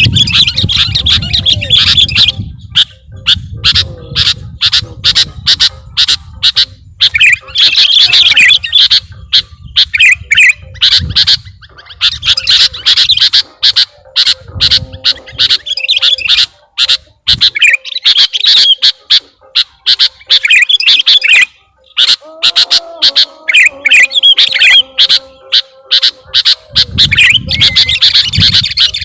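Sooty-headed bulbul (kutilang) singing a loud, rapid, varied song of chirps and squawks in quick runs with short breaks. A low rumble sits under it near the start and again near the end.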